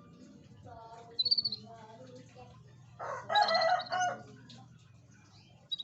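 Birds calling: a short high chirp about a second in, then a louder call about three seconds in, about a second long and rich in overtones.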